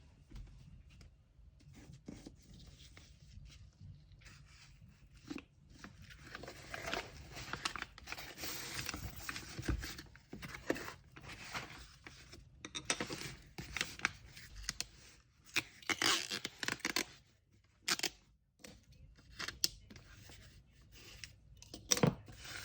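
Paper packaging being handled by hand: rustling, crinkling and tearing, busiest in the middle, with a few sharp clicks near the end.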